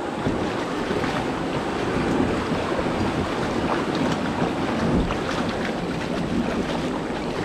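Loud, steady rushing of moving creek water close to the microphone, with small splashy crackles through it.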